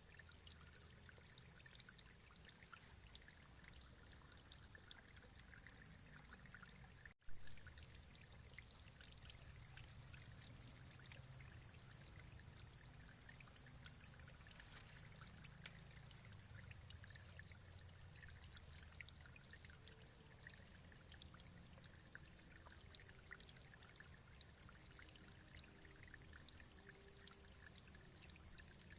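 Faint, steady running water, a small stream trickling and splashing. About seven seconds in the sound drops out for an instant and comes back with a sharp click.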